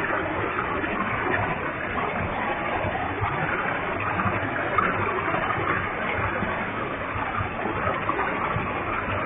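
Waterfall with a heavy flow of water: steady rushing and splashing of falling water.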